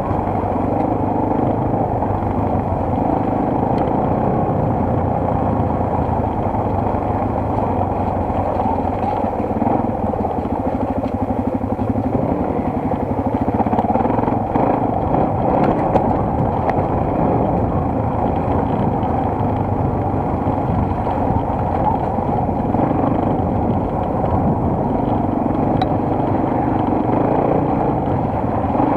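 Single-cylinder enduro motorcycle engine running under way, recorded on board, with wind and road rumble; the engine note shifts in pitch as the throttle changes, most clearly about twelve seconds in.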